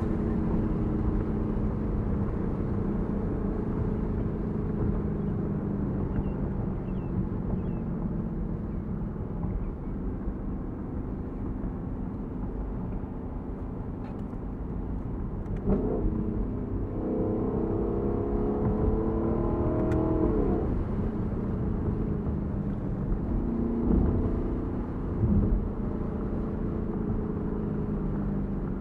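Lexus LC500's 5-liter naturally aspirated V8 running while cruising, with its exhaust note heard from the open cabin. About halfway through it pulls harder, the revs climbing for a few seconds, and it surges again briefly near the end.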